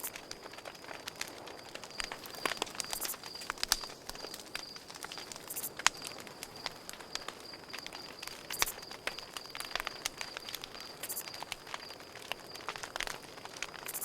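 Campfire crackling, with irregular sharp pops and snaps of wood, the loudest a few seconds in. Behind it, crickets chirp in a steady, evenly pulsed high trill.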